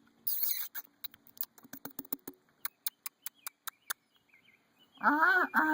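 A person making noises at nestling birds: a run of sharp clicking sounds, then near the end three loud squeaky calls, each rising and falling in pitch. The noises are made to get the nestlings to poke their heads up.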